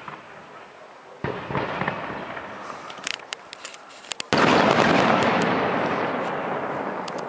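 Aerial firework shells bursting: a bang about a second in, a few sharp crackles, then a louder bang near the middle, each followed by a long echo dying away.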